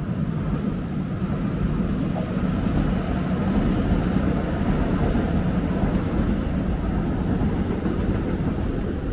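Steady low rumble of passing vehicle traffic.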